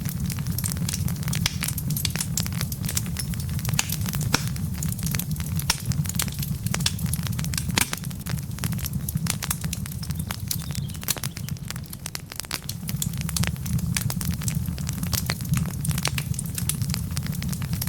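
Wood logs burning in a fireplace, crackling densely and irregularly over a steady low noise.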